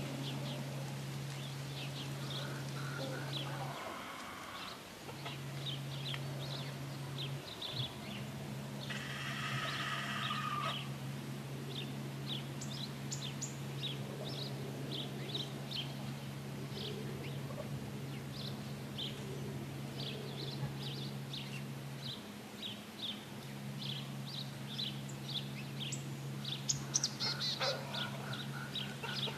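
Birds calling: many short, quick chirps throughout over a steady low hum. A longer call lasts about two seconds, starting about nine seconds in, and more longer calls come near the end.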